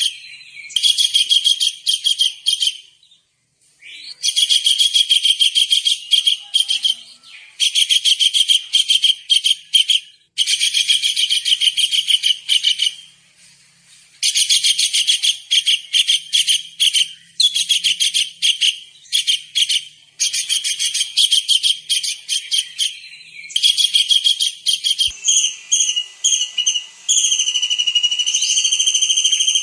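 Tengkek udang kingfisher calling in phrases of rapid, shrill, high-pitched trilled notes, each phrase a second or two long with short breaks between. Near the end the notes run into a steadier, held shrill whistle.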